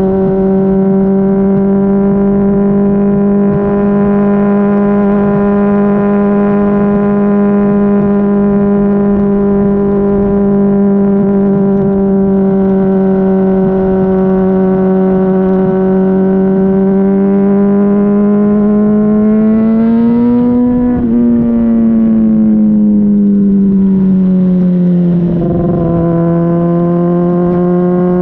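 Honda CBR600RR inline-four through a Yoshimura RS-5 exhaust, heard close at the exhaust while riding: a loud steady note at constant engine speed. About two-thirds through the pitch rises briefly, then drops back and settles a little lower.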